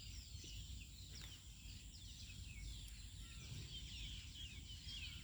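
Birds chirping in a dense, continuous chorus of short falling notes, over a steady low rumble.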